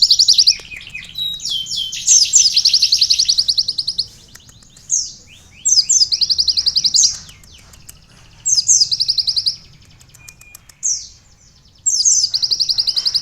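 Olive-backed sunbird (kolibri ninja) singing a song tutored with canary song: rapid, high trilled phrases of a second or two each, repeated with short pauses between them.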